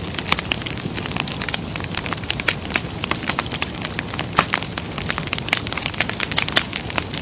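Fireplace fire crackling: many sharp, irregular pops and snaps, several a second, over a steady low hiss.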